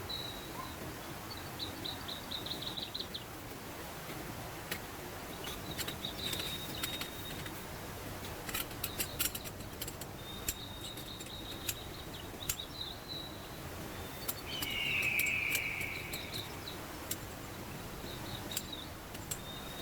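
Creek-side ambience: the steady rush of a mountain stream under high insect trills and bird calls. Scattered sharp clicks cluster around the middle, and a louder call lasting about a second and a half comes about three quarters of the way through.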